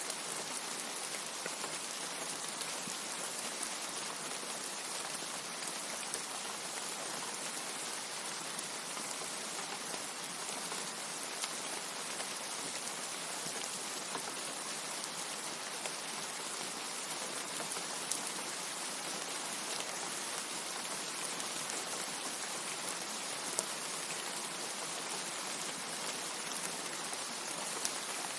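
Steady heavy rain, an even hiss with a few sharper single drop hits scattered through it. No thunder.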